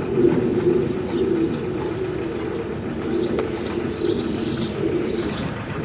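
Small birds chirping in short repeated calls, with a pigeon or dove cooing, over a steady low hum.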